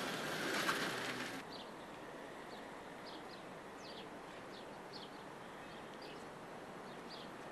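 Small birds chirping: short, high, falling calls repeated every half second or so over a low steady outdoor hum. A brief stretch of louder car noise at the start cuts off suddenly after about a second and a half.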